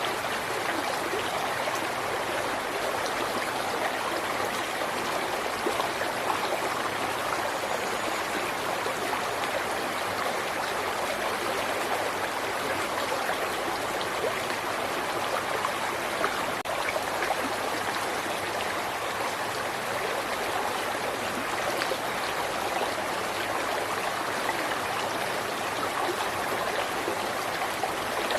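River water flowing and splashing: a steady, even rush of running water.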